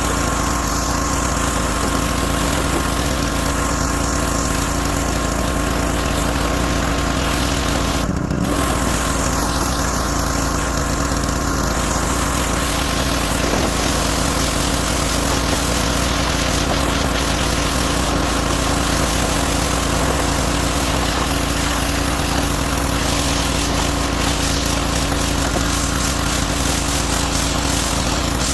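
Small gasoline engine of a pressure washer running steadily under load, with the hiss of the spray over the engine hum; the hiss dips briefly about eight seconds in.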